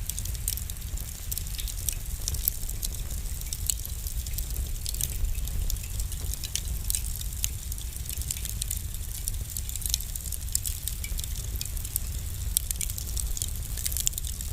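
Wood fire burning in a fireplace, crackling and popping with many small sharp snaps over a low steady rumble.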